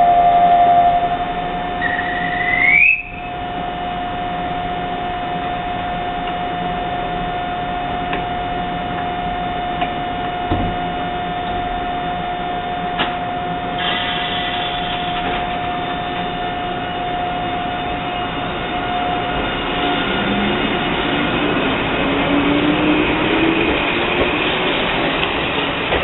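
Eizan Electric Railway train: a steady hum with a short rising tone about three seconds in, and from near the end a motor whine that climbs slowly in pitch, as an electric train accelerating makes.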